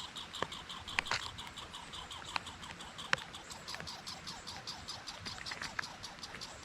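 Rapid, evenly repeated high chirping, about seven chirps a second, from small animals outdoors, broken by a few sharp clicks.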